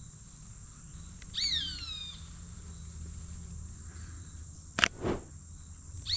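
Roadside hawk giving one drawn-out, descending scream about a second and a half in, over a steady high-pitched drone of rainforest insects. A single sharp click sounds near the end.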